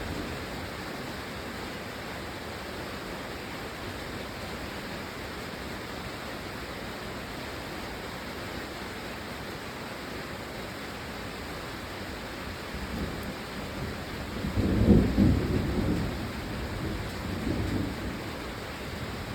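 Steady rain falling, with a low roll of thunder building about two-thirds of the way through, loudest shortly after and rumbling on to the end.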